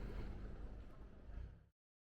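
Street ambience with a low traffic rumble, fading out and cutting to silence about a second and a half in.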